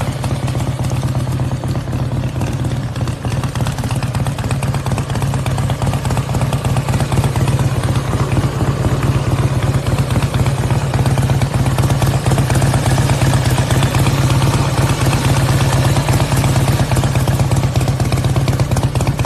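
Custom Harley-Davidson V-twin running through its aftermarket exhaust with a steady, loud low pulsing note. It gets a little louder about seven seconds in and holds there.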